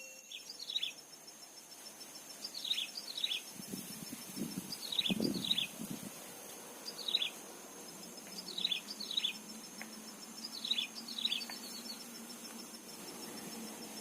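Red-eyed bulbuls at the nest giving short, sharp chirps that slide down in pitch, mostly in pairs or threes every second or two. There is a brief rustle about four to five seconds in, and a steady high insect drone underneath.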